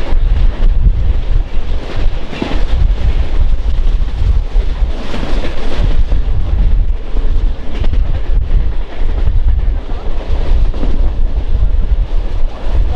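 Heavy wind buffeting the microphone, a loud, unsteady low rumble with a rushing hiss over it.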